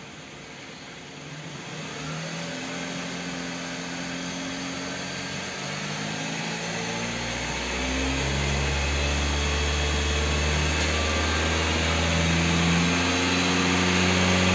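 Kia K5 car engine being revved slowly and steadily higher toward 4000 rpm, growing louder throughout, with a deep hum coming in about halfway. It is a test run after the knocking connecting-rod bearings were replaced.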